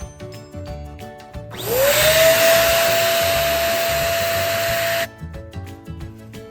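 Electric balloon pump spinning up about a second and a half in, running steadily as it inflates a balloon, then switching off suddenly after about three and a half seconds. Background music plays throughout.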